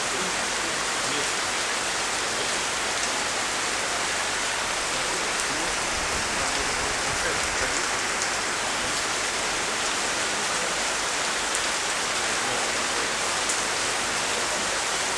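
Steady rain falling hard, an even hiss with a few sharper drip ticks now and then.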